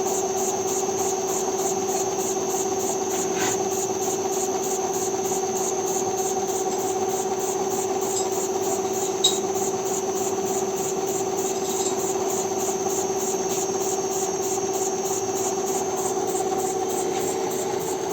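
Beam steam engine running steadily on test, with a fast, even beat over a steady hum. A single sharp click about nine seconds in.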